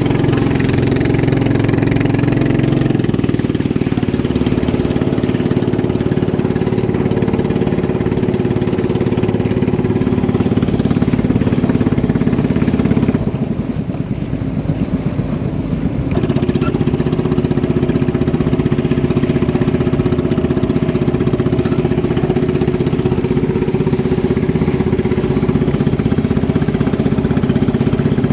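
Boat engine running steadily. About halfway through it eases off for a few seconds, then picks back up to a steady run.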